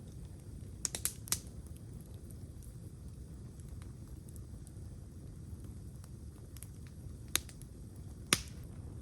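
Wood campfire crackling: a handful of sharp pops, three close together about a second in and two more near the end, the last the loudest, over a low steady rumble.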